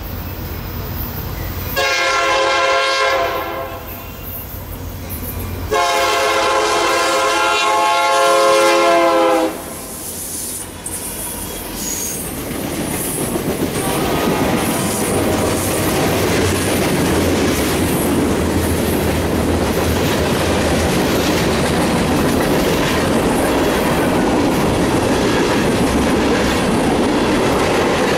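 Diesel freight locomotive's air horn sounding two blasts, a short one about two seconds in and a longer one a few seconds later. Then the locomotives and a long string of boxcars and hopper cars roll past with steady wheel clatter on the rails.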